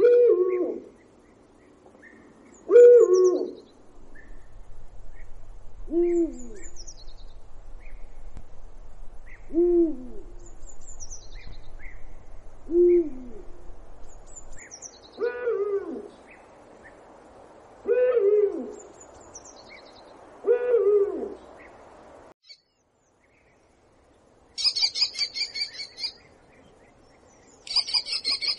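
Owl hooting: single low hoots, one about every three seconds, with faint higher bird chirps between them. It stops about 22 seconds in. After a moment of silence, a different high, rapid buzzy chatter comes twice near the end.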